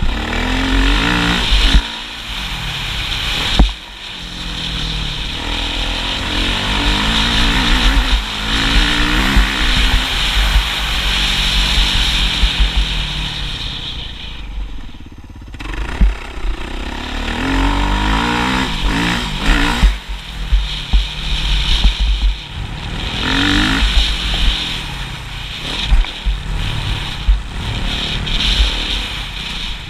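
Motocross motorcycle engine revving hard and easing off again and again, its pitch climbing in repeated rises, with a short lull in revs about halfway through.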